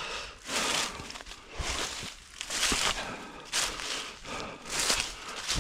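A runner breathing hard, with a breath about once a second, over footsteps crunching through the forest floor.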